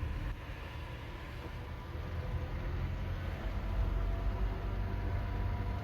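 Steady low rumble of a Toyota Tacoma pickup driving, heard inside the cab: engine and road noise, growing slightly louder about two seconds in.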